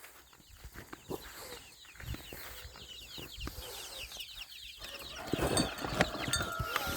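A flock of backyard poultry calling, with many quick high peeps and clucks overlapping. About five seconds in it grows louder and busier, with scratching and rustling among the birds.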